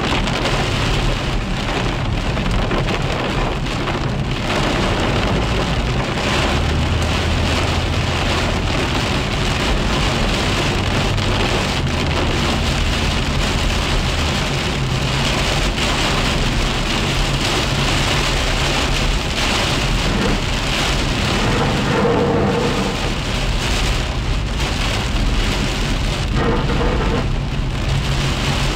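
Heavy downpour rain hitting a car's windshield and roof, heard from inside the moving car, with a steady low rumble of road and engine noise underneath.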